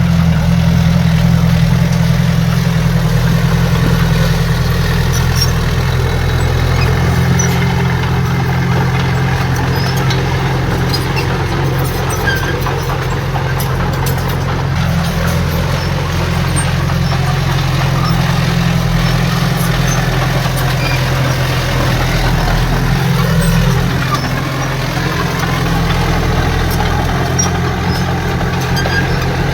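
Heavy diesel engine of earthmoving equipment running steadily at an even speed, with a low hum that barely changes.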